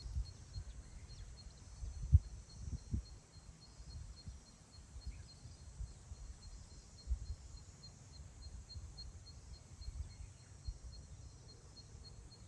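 Wind blowing across open grassland, buffeting the microphone in uneven gusts with a low rumble, the strongest gust about two seconds in. A faint high chirp pulses evenly about three times a second throughout, with a few faint bird chirps.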